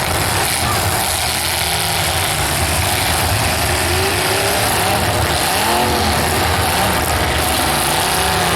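Several demolition derby cars' engines running and revving over a loud, steady wash of noise, with short rises and falls in pitch.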